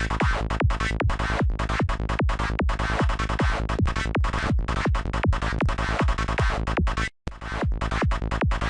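Psytrance loop at 150 BPM: a dark, buzzing FM-style synth lead programmed in Native Instruments Massive, chopped into short notes between kick drums whose pitch falls on each beat, about two and a half a second. The loop cuts out for a moment about seven seconds in and starts again.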